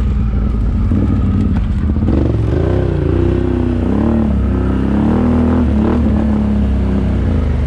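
ATV engine running, its pitch rising and falling as the throttle is worked from about two seconds in.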